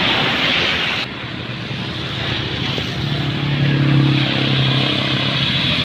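Large box truck driving uphill: a dense hiss cuts off abruptly about a second in, then the truck's engine note grows louder from about three seconds in and holds steady.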